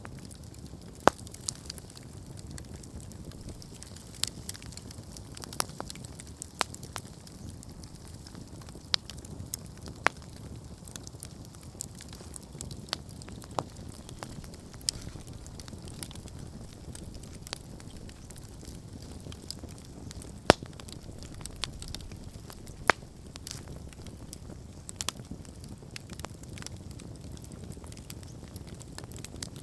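Wood campfire burning: a steady low rumble of flames with frequent sharp, irregular crackles and pops, a few louder pops scattered through.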